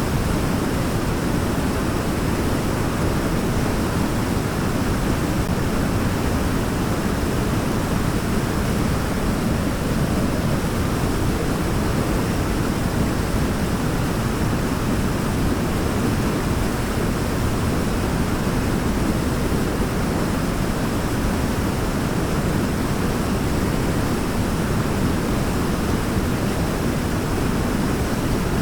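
Waterfall rushing steadily: a constant, deep roar of falling water with no breaks.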